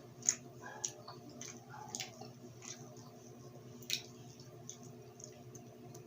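Close-up eating sounds of someone chewing grilled street food: wet smacks and sharp mouth clicks at irregular intervals, the loudest about a third of a second in and near four seconds, over a faint steady hum.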